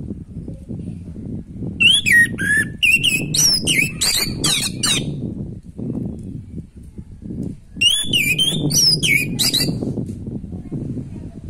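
Orange-headed thrush singing: two runs of quick, varied whistled phrases, each lasting a few seconds, over a low background rumble.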